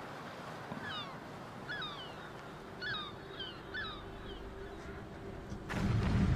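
A bird calling repeatedly, about six short calls that slide down in pitch. Near the end a sudden, louder rush of noise comes in.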